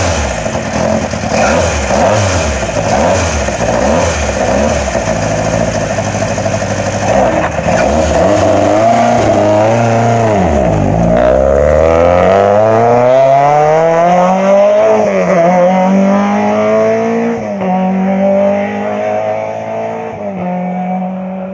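Rally-prepared Fiat 127 Sport 1050's four-cylinder engine revved in repeated short blips while standing. About ten seconds in, the car pulls away: the revs climb through two gear changes and the sound fades as the car drives off.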